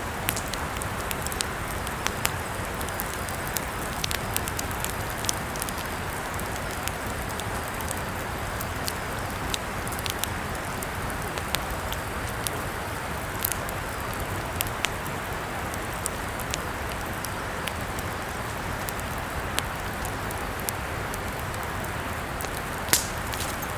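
Campfire burning: a steady hiss of flames with scattered crackles and pops, and one sharper pop near the end.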